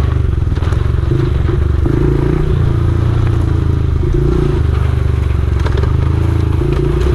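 Honda XR70R pit bike's small four-stroke single-cylinder engine running steadily in third gear while rolling down a slope, with a few clattering knocks from the bike over the ground.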